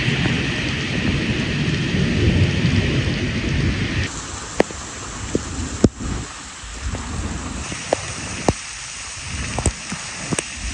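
Steady rain falling, with a low rumble under it for the first four seconds. After about four seconds it changes to lighter rain, with separate heavy drops striking hard surfaces close by.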